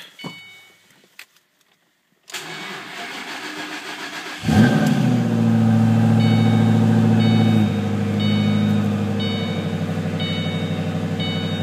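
A 2008 Shelby GT500's supercharged 5.4-litre V8 cranks for about two seconds in extreme cold after three weeks unused, catches and flares, then runs at a fast cold idle that drops slightly a few seconds later. An electronic chime dings about once a second over the idle.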